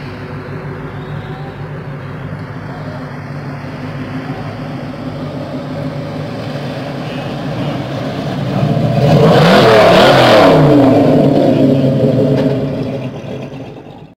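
Several car engines idle steadily, then a hot-rodded late-1940s Ford two-door sedan drives close past and pulls away. Its engine note swells to the loudest point about two-thirds of the way through, with the pitch shifting as it passes, then fades near the end.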